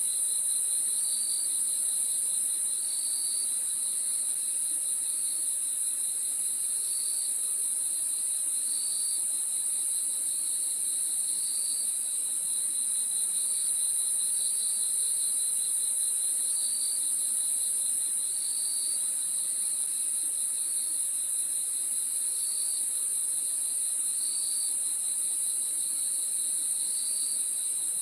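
Crickets chirping in a steady, dense high-pitched chorus. Over it, one insect gives short chirps at an even rate of about one every second and a half.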